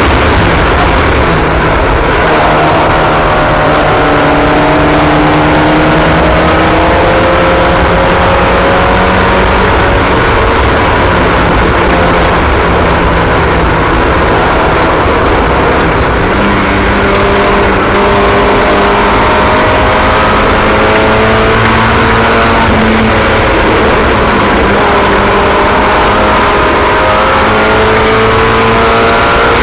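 Several small race-car engines running at once, each pitch rising and falling as the cars accelerate and lift off in turns. The engine notes overlap steadily, with no break.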